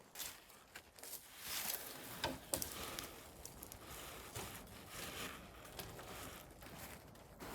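Irregular rustling and scraping with scattered clicks and knocks, growing louder about a second in.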